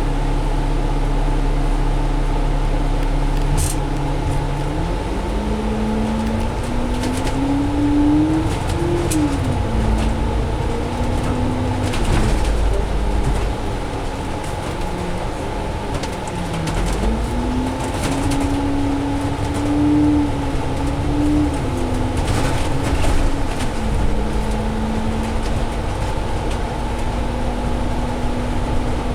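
Alexander Dennis Enviro500 double-decker bus with a Cummins ISL diesel and Allison automatic, heard from inside: the engine idles, then pulls away about five seconds in, its pitch climbing and dropping sharply with an upshift, climbing and falling again later, and holding steady near the end, over a steady cabin hum.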